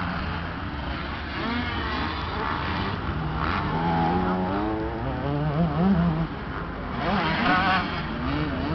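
Several 450cc four-stroke motocross bikes racing, their engines revving up and down as they accelerate and shift, with one bike rising in pitch near the end.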